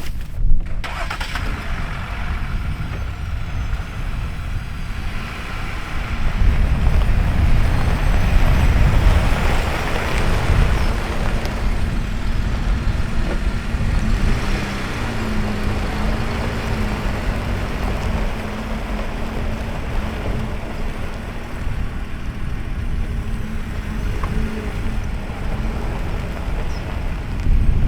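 A car's engine running as the vehicle is driven slowly, its hum wavering up and down in pitch for a while in the middle, under a heavy rumble of strong wind on the microphone.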